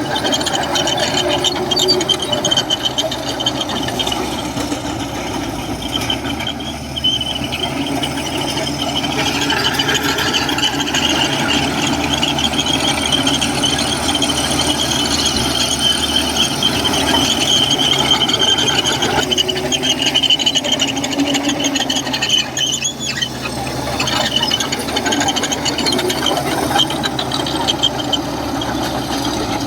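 Komatsu crawler bulldozer working, its steel tracks and undercarriage giving a steady high squeal over the running diesel engine.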